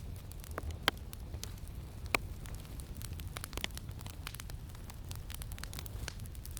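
Campfire crackling, with frequent small pops and two louder snaps about one and two seconds in, over a steady low rumble of wind.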